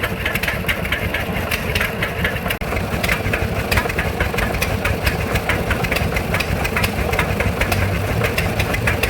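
An old engine running steadily, with a fast, even clatter of sharp knocks over a low hum.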